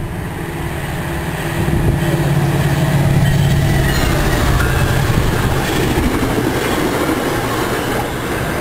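Northstar commuter train passing close by: the diesel locomotive's steady engine drone, fading out about halfway through, over the wheel noise on the rails.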